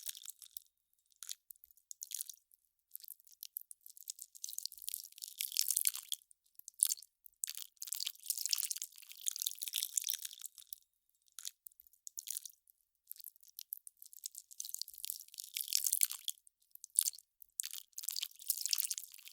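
Melting ice crackling in irregular clusters of fine, high crackles, with short gaps between them.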